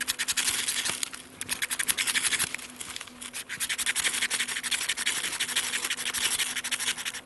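Ferro rod built into a knife being struck over and over in quick runs of scraping strokes, throwing sparks onto birch bark to light it, with two short pauses.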